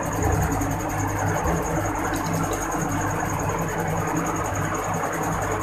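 Potato-and-egg batter frying in oil in a non-stick pan: a steady sizzle, with a low hum underneath and a thin high whine.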